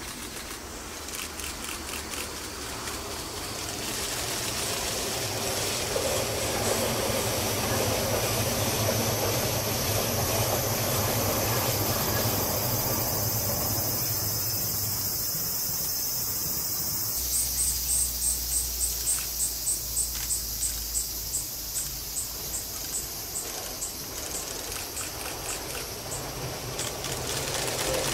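A train running on the line, its noise slowly building. In the second half an insect chirps steadily, about two or three times a second.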